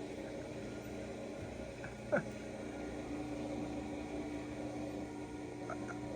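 Steady indoor hum, with one sharp click about two seconds in, after which a steady humming tone comes in and holds.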